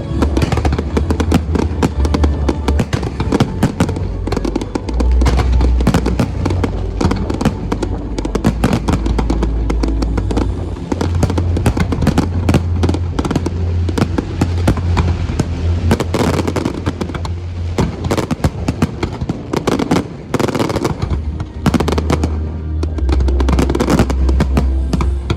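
Fireworks going off in a dense, rapid run of bangs and crackling, with heavy low booms, while music plays.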